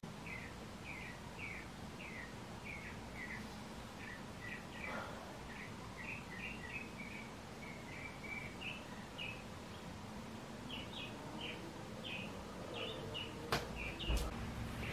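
Small songbirds chirping: a long string of short, high chirps, a few a second. Two sharp clicks come near the end.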